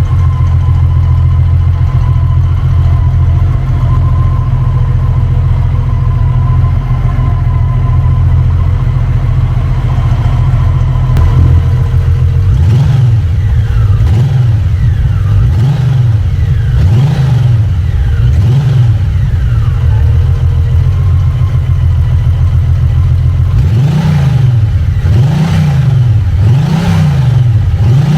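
Honda Valkyrie Rune's 1800cc horizontally opposed six-cylinder engine idling steadily through its exhaust, then blipped repeatedly about once a second, the pitch rising and falling with each rev. After a short steady stretch, another run of quick revs comes near the end.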